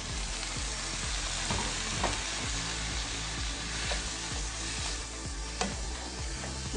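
Cooked beef pieces sizzling and frying in oil and onion-tomato masala in a frying pan as a spatula stirs them in, with a few sharp scrapes of the spatula against the pan.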